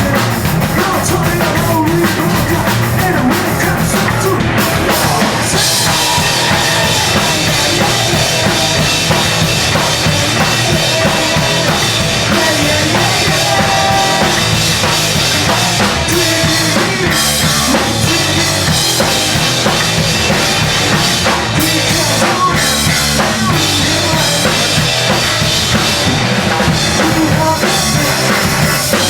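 Live post-hardcore band playing loud and hard, the drum kit prominent with pounding bass drum and snare; the sound fills out with more cymbal and treble about five seconds in.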